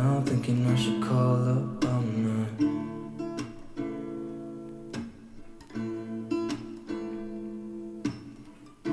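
Background music: acoustic guitar strumming chords in a song, between its sung lines.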